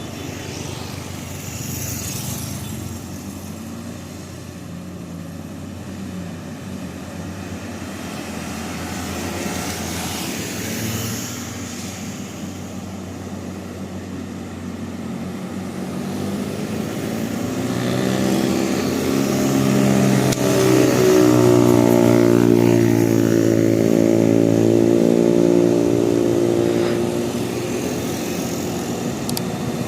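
Heavy truck's diesel engine labouring up a steep climb. It grows louder past the middle, holds a fairly steady note at its loudest, then fades a little near the end.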